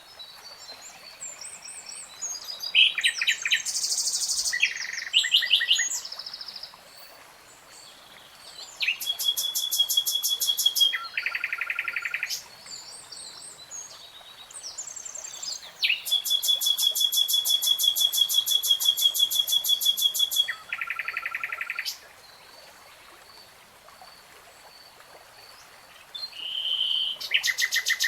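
A songbird singing in varied phrases separated by pauses. The phrases include fast rapid-note trills, the longest lasting about four seconds, and shorter chirped notes.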